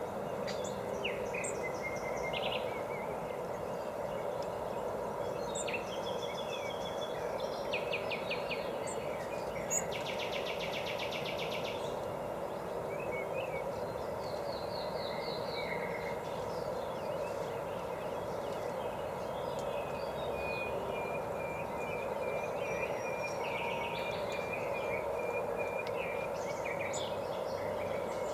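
Several wild songbirds calling and singing over a steady background hiss, with chirps scattered throughout. A fast trill comes about ten seconds in, and a long even run of repeated notes follows later on.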